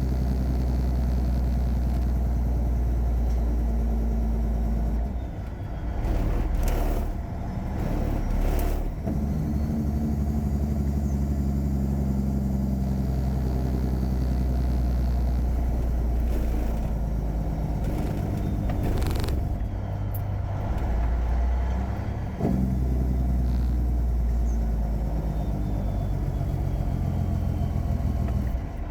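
Caterpillar 3406E inline-six diesel in a Freightliner Classic truck running under way. The engine note breaks and changes pitch a few times, with short noise bursts in between.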